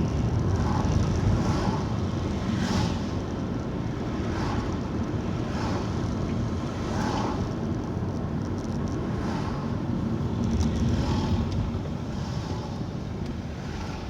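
Car driving along: steady engine and road rumble, with a light wind noise.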